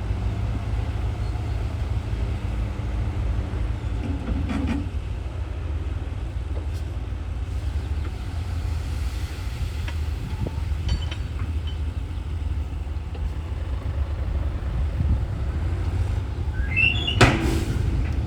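Heavy diesel earthmoving machinery running with a steady low rumble, with a few metallic clanks and a short high squeal with a loud clank about a second before the end.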